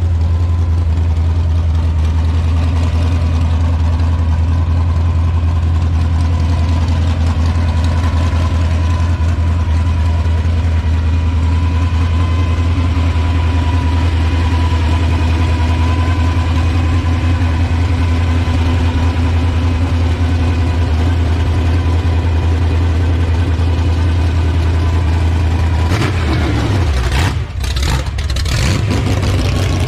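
Hot rod engine idling with a loud, steady low rumble; near the end the sound breaks up and dips briefly.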